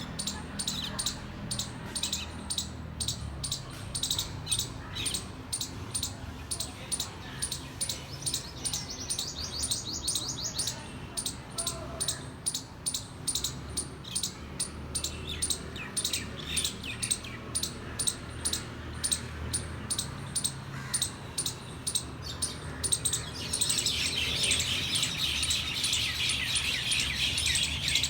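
A squirrel giving a long run of short, high chirps, about two to three a second. Near the end a denser, busier twittering joins in.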